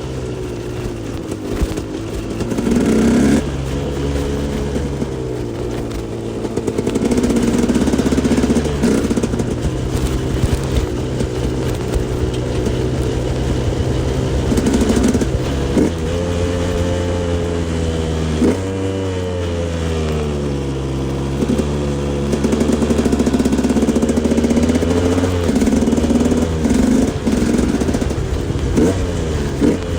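2011 KTM 125 EXC's two-stroke single-cylinder engine under way, the revs repeatedly rising and dropping as the throttle opens and closes and the gears change.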